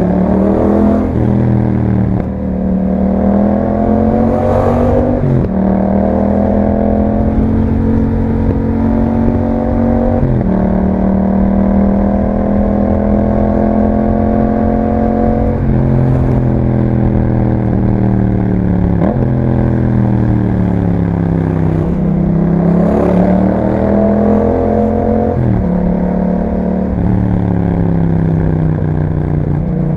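2021 Yamaha MT-07's parallel-twin engine running through an aftermarket Akrapovic exhaust while riding. Its pitch rises and falls with the throttle, with several sudden steps at gear changes and stretches of steady cruising between them.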